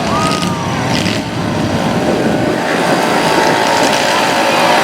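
Motor vehicle engines running, with a short rising-and-falling pitch glide at the start.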